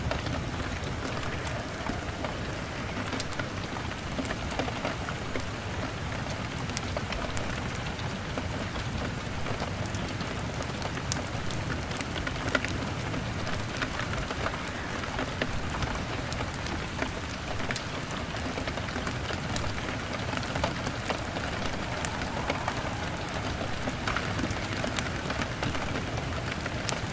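Steady rain beating on a window pane, with many small sharp crackles and ticks scattered through it from a crackling log fire and individual drops.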